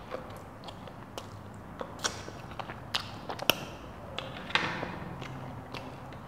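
Close-miked mouth sounds of a person eating pasta and fish: chewing with scattered sharp wet clicks and lip smacks.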